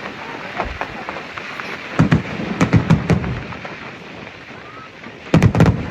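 Aerial fireworks shells bursting: a rapid run of bangs about two seconds in, then another quick cluster near the end, over the murmur of people talking.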